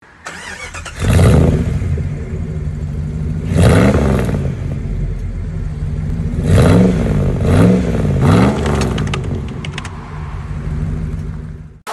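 Vehicle engine running at idle and revved in quick blips, about five times, each rev rising and falling in pitch, with three close together past the middle; it cuts off just before the end.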